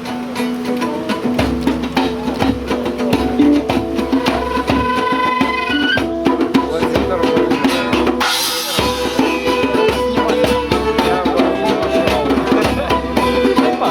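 Live band playing a song with a drum kit and pitched instruments, the full beat coming in about a second and a half in. There is a brief break with a splash of cymbal about eight seconds in.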